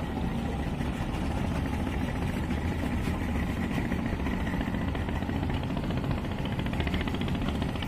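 Twin Yamaha 200 hp two-stroke outboard motors running steadily.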